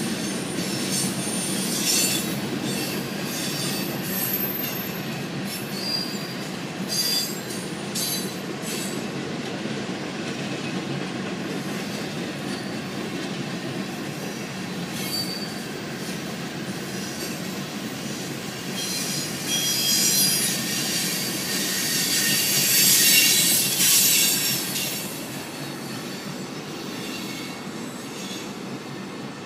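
Freight train of coal hopper cars rolling past at close range: a steady rumble of steel wheels on rail with high, intermittent wheel squeal on top. The squeal grows loudest about twenty seconds in, then the sound drops off as the last cars go by.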